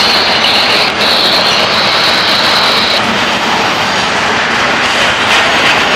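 Freight cars rolling past at close range: the loud, steady rush and rumble of steel wheels on rail, with a high wheel squeal that cuts off about three seconds in.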